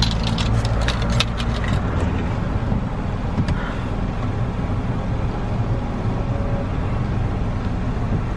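Car engine idling, heard from inside the cabin as a steady low rumble, with a few light clicks in the first couple of seconds.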